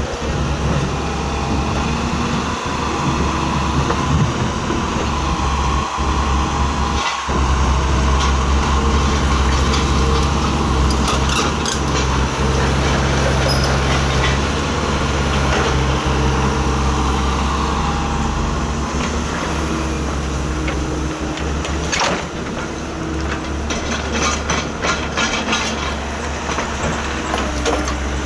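Excavator's diesel engine running steadily, its working load rising and easing, with a few sharp knocks in the second half.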